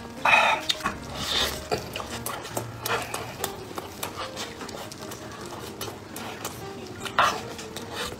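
Close-miked eating sounds: a man biting into and chewing soft bread filled with red bean paste, with wet mouth noises and smacking. There are irregular clicks and rustles from handling the food, and the loudest bursts come just after the start and again about seven seconds in.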